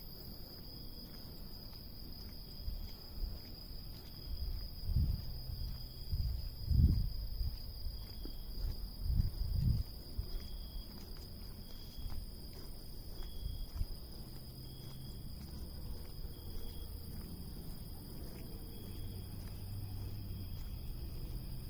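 Cicadas droning, a steady high-pitched buzz that does not let up. Several low thumps or rumbles about five to ten seconds in are louder than the buzz.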